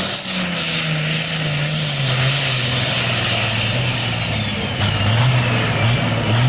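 Turbocharged diesel drag tractor running hard, its engine note falling steadily in pitch. A high turbo whistle glides down with it.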